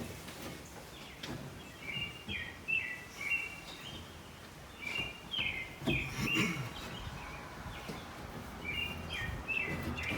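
A bird singing in the background: a repeated phrase of quick chirps stepping down in pitch, about every three to four seconds. Faint clicks and light knocks come from handling in between.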